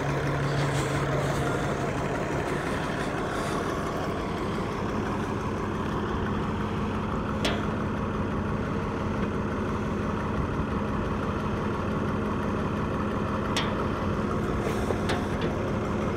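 Muir Hill tractor engine idling steadily, its pitch stepping up a little about four seconds in. Two sharp metallic clicks come through partway through.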